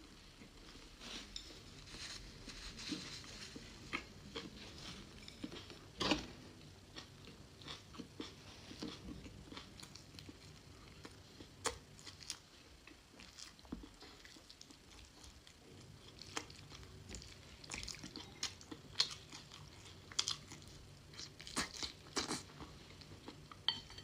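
Close-miked eating sounds: a person chewing and biting food, with many short sharp mouth clicks scattered unevenly throughout.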